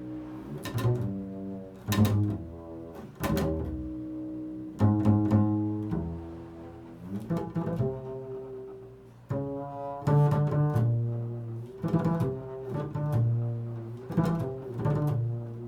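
Improvised music on a plucked string instrument: single low notes and chords struck about once a second, each ringing on and fading before the next.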